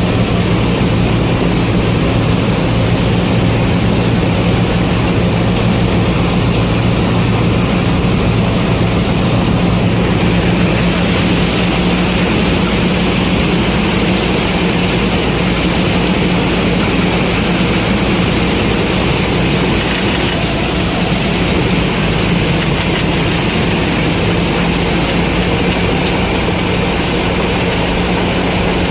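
Combine harvester's engine and threshing machinery running steadily under load while harvesting maize. The tone shifts slightly about ten seconds in.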